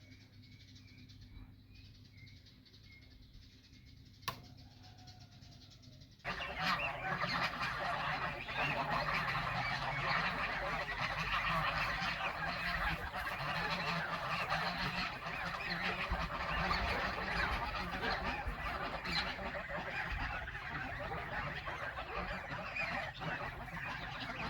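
A flock of farm poultry calling in a dense, continuous clamour that starts suddenly about six seconds in. Before that it is quiet apart from a single click.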